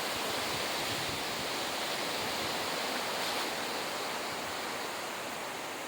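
Steady rush of wind blowing through trees, easing slightly near the end.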